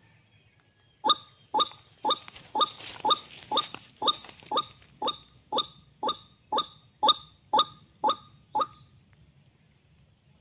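White-breasted waterhen's call: a series of about sixteen short, sharp notes repeated evenly, about two a second, stopping a little before the end.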